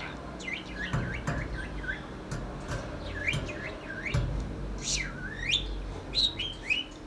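Small pet parrot chattering with quick chirps and sweeping whistles, including one long whistle that dips and rises again about five seconds in.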